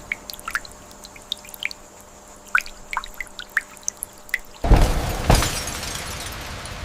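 Water dripping in scattered single drops, then about two-thirds in a sudden loud rush of water with a second splash just after, settling into a steady hiss like rain.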